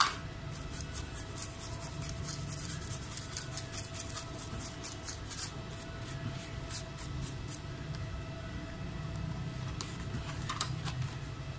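Small hand tools clicking and scraping on a laptop mainboard during repair, rapid and irregular, stopping for a few seconds and starting again near the end, over a steady electrical hum.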